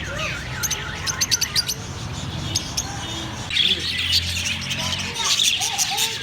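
Many caged birds chirping and calling at once, short high chirps mixed with squawky calls, growing denser about halfway through.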